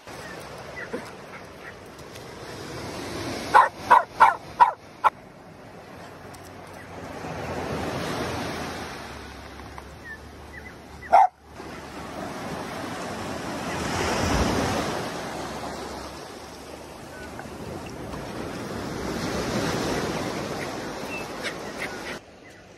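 Waves breaking on a beach, the surf swelling and fading every few seconds. A dog barks four times in quick succession about four seconds in, and once more around eleven seconds.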